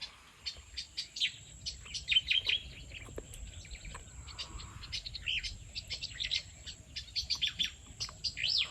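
Small birds chirping: many quick, short chirps and a few swooping calls, busiest about two seconds in and again near the end.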